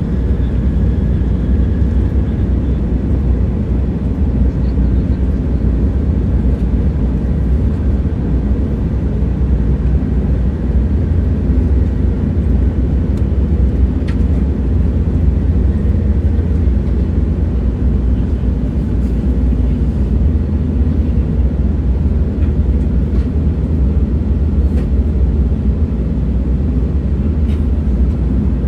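Train running: a steady low rumble with a few faint ticks here and there.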